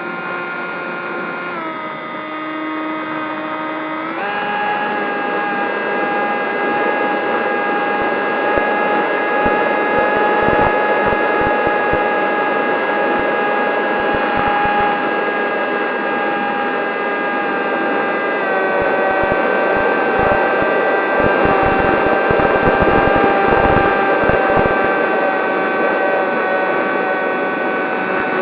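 Electric motors and propellers of a Zohd Talon GT Rebel RC plane running with a steady whine, the pitch stepping down about two seconds in, jumping up at about four seconds and stepping down again around eighteen seconds as the throttle changes. Short low rumbles come and go through the middle.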